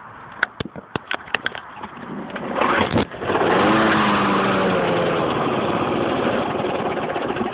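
Small lawnmower engine being pull-started: a few clicks, a rising pull, then the engine catches and runs for about four seconds, its pitch slowly sagging before it eases off, the mower failing to keep running.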